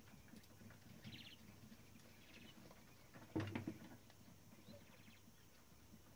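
Quiet handling noises from work on a typewriter's mechanism: faint scattered clicks and short ticking runs, with one sharper knock and a few quick taps about halfway through.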